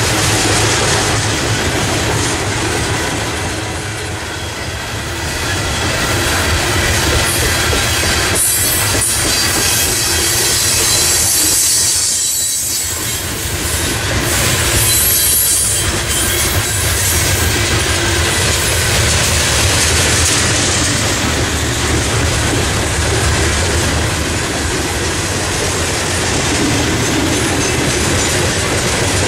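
Freight train of steel coal gondola cars rolling past at close range: a steady rumble and clatter of steel wheels on the rails, with a louder high hiss from the wheels about halfway through.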